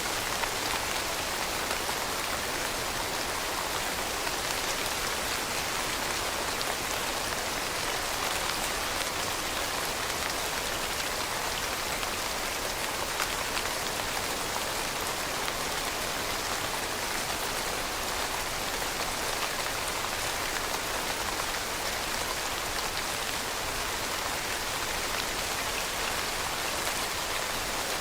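Steady rainfall pattering on a surface, a dense even hiss of many small drops with no thunder.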